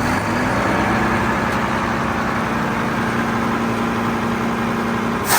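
Mack MRU McNeilus Atlantic front loader garbage truck's engine running steadily at a raised speed, with a steady whining tone over it. A short burst of hiss comes near the end.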